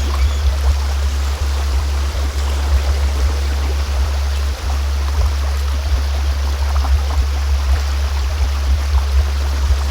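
A steady deep hum, the low frequency tone of a sound-healing track, playing under a continuous sound of a flowing stream.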